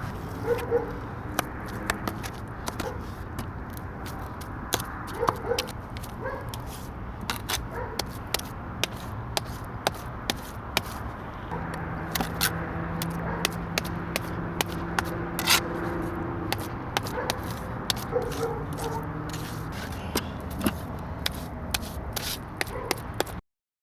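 Irregular scraping, clicking and knocking of a tool working wet cement mix, over a steady low background hum. The sound cuts off abruptly just before the end.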